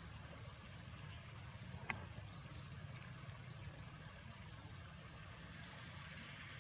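Faint outdoor ambience: a steady low rumble, a single sharp click about two seconds in, and a quick run of short, high chirps about halfway through.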